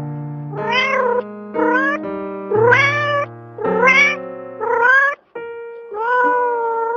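A cat meowing six times, about once a second, each meow rising then falling in pitch, over background piano music with held notes.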